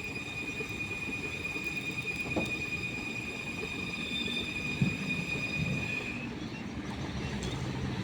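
Mitsubishi Canter dump truck running with a low rumble under a steady high-pitched mechanical whine, which cuts off about six seconds in. A light knock comes near the five-second mark.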